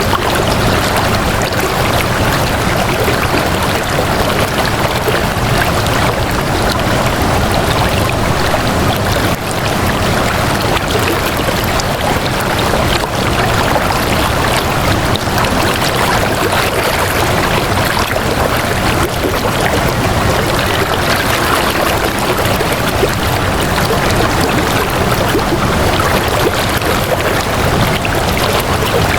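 Flowing water running steadily, an even, unbroken rush.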